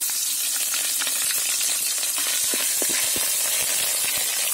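Ginger-garlic paste sizzling in hot oil in a kadai: a steady frying hiss with scattered small pops.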